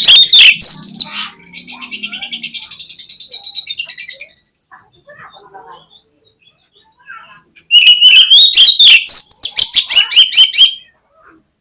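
Oriental magpie-robin (kacer) singing loudly. It opens with sharp whistled phrases and a buzzy rattling chatter, falls quiet for a few seconds, then gives another burst of whistles and rapid clicking notes about eight seconds in.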